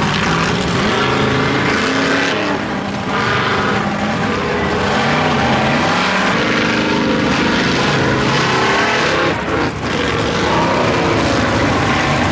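Monster truck's supercharged alcohol-burning big-block V8 revving again and again, its pitch rising and falling, with a brief drop about three-quarters of the way through.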